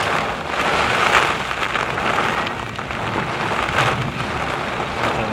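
Heavy thunderstorm rain pouring down in a dense, steady hiss that swells a few times as gusts of wind drive it.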